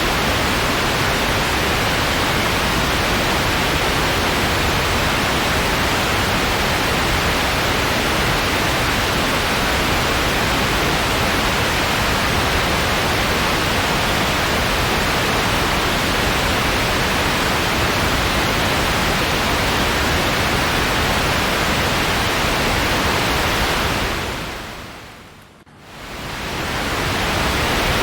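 Steady white-noise hiss, even and unchanging. About 24 seconds in it fades smoothly down almost to nothing and then rises back to full level a couple of seconds later.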